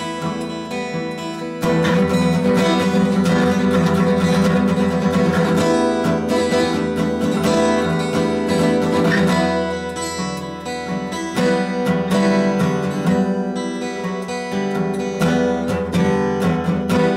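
Background music led by strummed acoustic guitar, getting fuller and louder about a second and a half in, with quick rhythmic strumming near the end.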